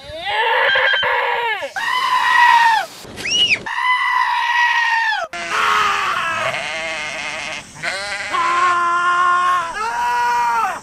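A run of loud, drawn-out, goat-like screaming cries, each held for about a second. The cries stop and start several times and end abruptly.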